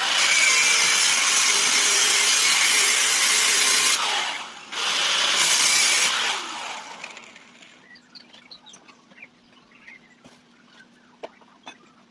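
A power tool running hard in two long runs with a brief break between, then winding down and fading out, followed by faint small clicks.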